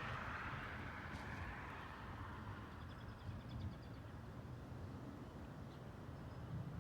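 Outdoor ambience of a steady low rumble and hiss. A bird gives a brief, rapid high trill about three seconds in.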